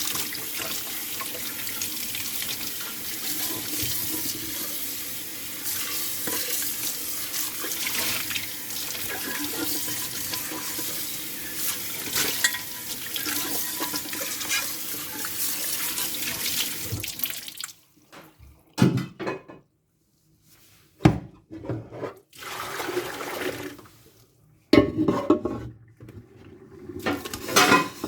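Kitchen tap running steadily into a sink as dishes are washed and rinsed by hand, with light clinks in the water. The water shuts off about two-thirds of the way in, and after that dishes knock and clatter in short separate bursts.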